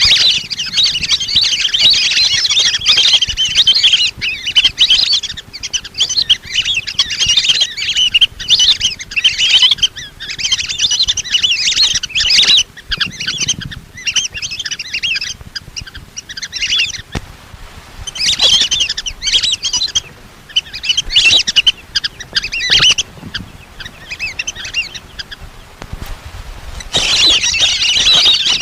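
Lesser whistling ducks calling as a flock: many shrill, whistled chattering notes in bursts, with short pauses between them.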